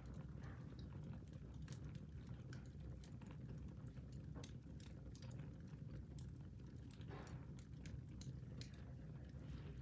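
Wood fire burning in a fireplace: irregular small crackles and pops over a low steady rumble.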